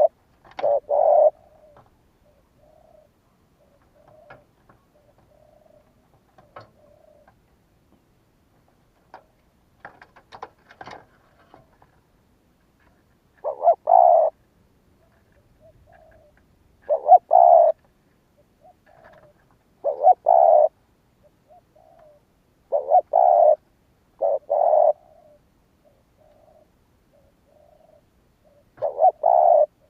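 Spotted dove cooing: loud phrases of two or three low coos repeat every few seconds, with softer single coos between them.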